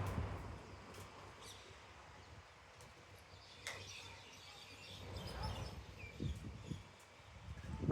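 Wild birds chirping and calling faintly in scattered short notes, over a low rumbling background noise that swells a couple of times, the loudest just before the end.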